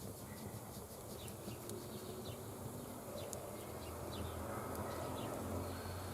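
An insect buzzing close by, getting louder about two thirds of the way in, with short high chirps and a few faint ticks behind it.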